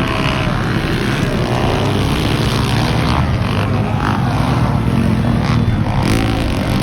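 Underbone motorcycle four-stroke engines racing on a motocross track, running hard with the pitch rising and falling repeatedly as riders rev and back off.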